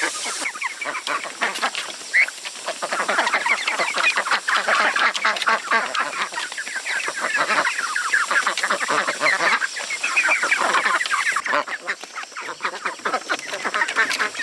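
A flock of poultry calling and clucking continuously, many birds at once in a dense, unbroken chatter.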